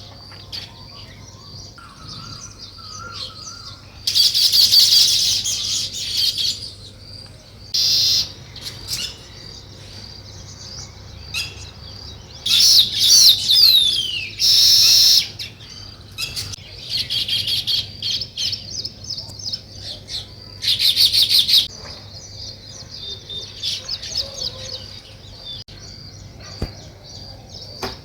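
Weaver birds calling: several loud bursts of fast, rapid chattering, with a steady run of faint chips in between and one call that glides downward near the middle. A faint low hum lies underneath.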